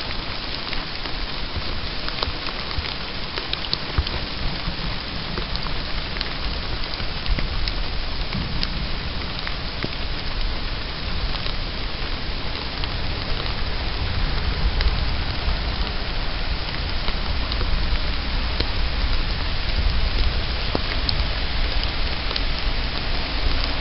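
Thunderstorm rain falling: a steady hiss with many small drop ticks. A deeper low rumble swells in the second half.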